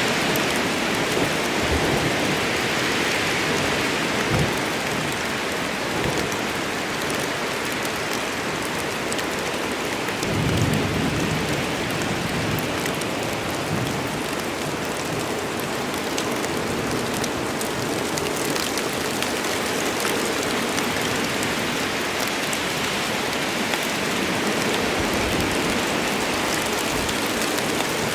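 Steady heavy rain falling on a forest, an even hiss of drops. About ten seconds in, a brief low rumble of thunder swells and fades under the rain.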